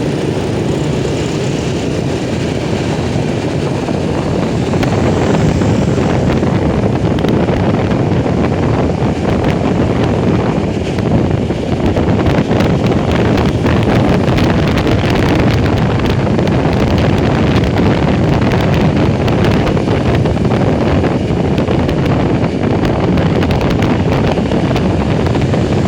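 Motorcycle riding at speed, its engine under heavy wind noise on the microphone; the noise grows a little louder about five seconds in.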